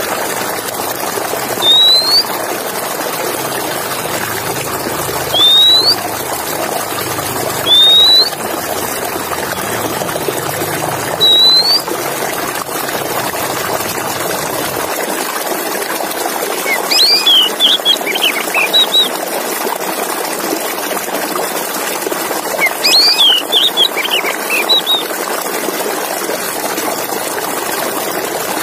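Male oriental magpie-robin (kacer) singing: four short rising whistles a few seconds apart, then two bursts of quick chirping phrases in the second half, over a steady hiss.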